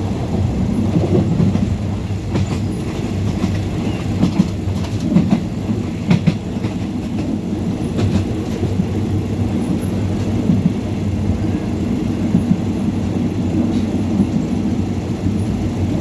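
Train running on rails: a steady low rumble with scattered sharp clicks and knocks from the wheels.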